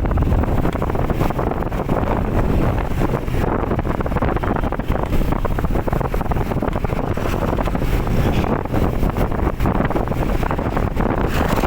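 Wind buffeting the microphone, a loud steady rushing and rumbling with no pitched engine note, as from riding on a moving bike.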